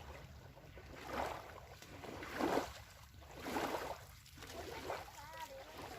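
Small waves lapping on a sandy lakeshore, swelling and fading about once a second. A short wavering tone sounds about five seconds in.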